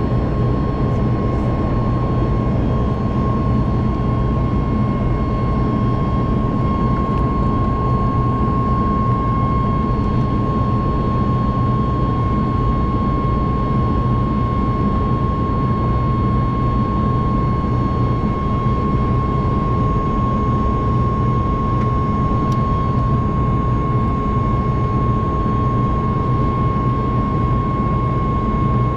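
Boeing 737 MAX 8's CFM LEAP-1B jet engines running at steady power as heard inside the cabin: a constant loud rumble and rush of air with a steady whine on top.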